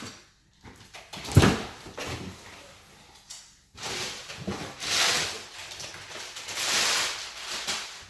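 Cardboard box being handled: a sharp thump about a second and a half in, then several seconds of rustling and scraping of cardboard.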